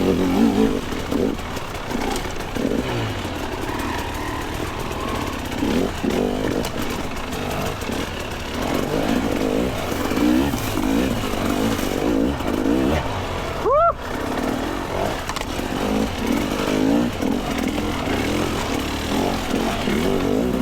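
Two-stroke dirt bike engine revving up and down on throttle and clutch while climbing a rough trail section, with one sharp high rev about fourteen seconds in.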